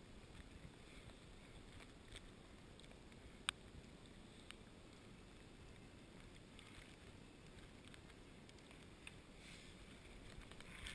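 Near silence: a faint, steady low rumble with a few soft ticks and one sharp click about three and a half seconds in.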